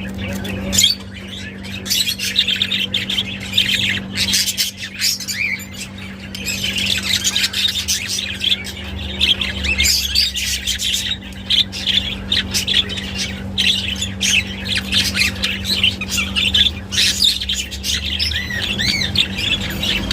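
Budgerigars chattering: a continuous stream of warbles, chirps and squawks, with a steady low hum underneath.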